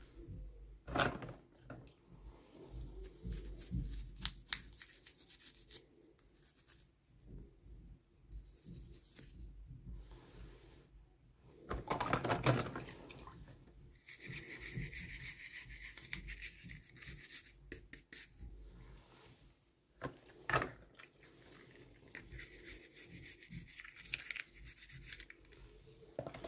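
Hands unboxing small plastic toys and packaging: irregular rubbing, scraping and rustling, with a few sharper knocks, the loudest near the middle.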